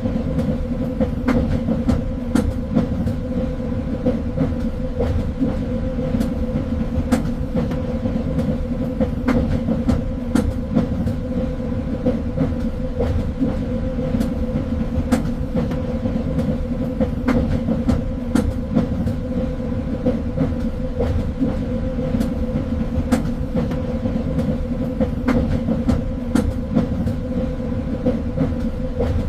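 Train running steadily along the track: a continuous low rumble with a steady hum, and scattered sharp clicks and knocks from the wheels on the rails.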